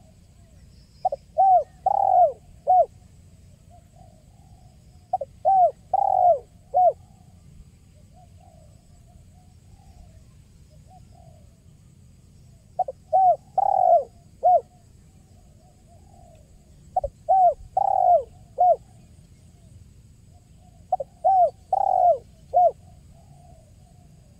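A spotted dove (tekukur) singing its cooing song: five phrases of four short coos each, spaced several seconds apart, with softer coos between the phrases.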